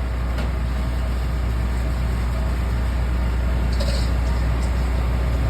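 A steady, low-pitched engine hum running without change.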